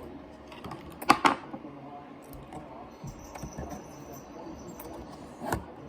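A couple of short clicks or knocks, one about a second in and one near the end, over a low, even background.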